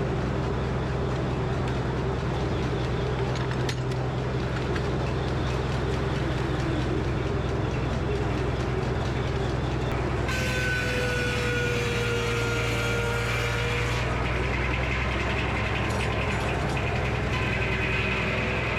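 Frick sawmill running steadily with a low drone. For about four seconds in the middle a slightly falling whine with added hiss rises over the drone, the sound of the saw cutting through the walnut log.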